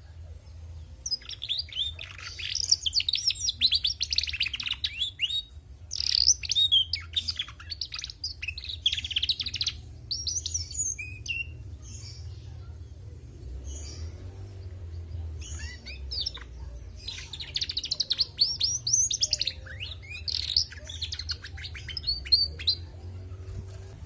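Female domestic canary twittering in phrases of rapid, high chirps, each a few seconds long with short pauses between. This twittering comes from a hen, not a cock.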